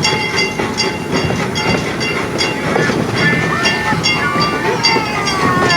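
Train running on rails, with an even clicking about two or three times a second that has a ringing edge, and high squealing tones sliding down in pitch in the second half.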